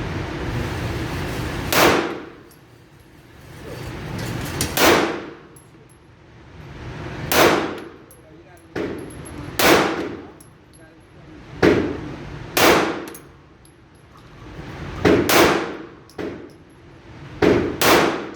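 Sig Sauer P320 X5 DH3 pistol firing about ten single shots at a deliberate, irregular pace, a few coming as quick pairs, each with a short ringing tail. A steady noise runs underneath before the first shot, about two seconds in.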